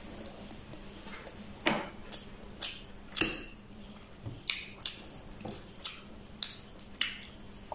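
Close-miked chewing and mouth smacking while eating a mouthful of instant noodles: about a dozen short, wet clicks and smacks at irregular intervals.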